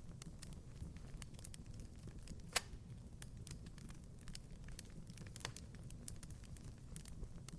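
Wood fire crackling in a fireplace: a steady run of small snaps over a low rumble, with one sharp, louder pop about two and a half seconds in and a smaller one near five and a half seconds.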